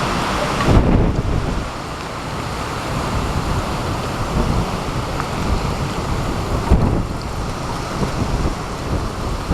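Typhoon wind gusting hard and buffeting the microphone with a heavy low rumble, over a steady hiss of wind and rain.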